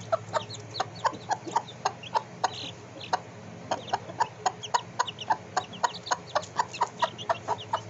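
Chicken clucking in a long, fast run of short clucks, about four or five a second, with a brief pause about two and a half seconds in.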